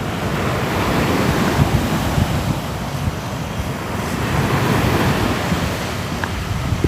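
Ocean waves breaking on a shore: a continuous rush of surf that swells and eases.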